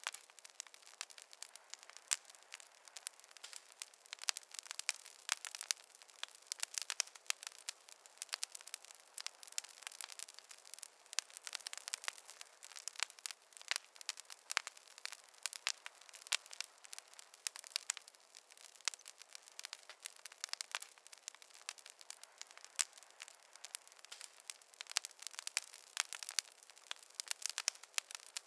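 Wood fire crackling: a dense, irregular run of sharp pops and snaps over a soft hiss.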